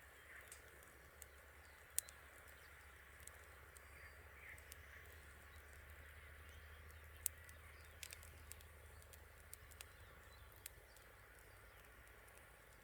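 Campfire crackling quietly, with scattered sharp pops from the burning wood; the loudest come about two seconds in and again past seven seconds. Faint chirping calls sound in the background.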